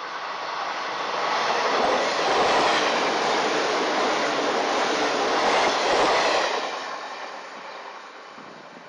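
JNR-liveried 485 series electric limited express passing close: the running noise of its wheels on the rails swells, peaks for about four seconds with a rapid low clatter as the cars cross the rail joints, then fades as the train draws away.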